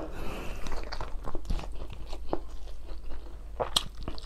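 Close-miked chewing and lip-smacking on a mouthful of nasi Padang rice mixed with gravy and sambal, eaten by hand, with many irregular wet clicks.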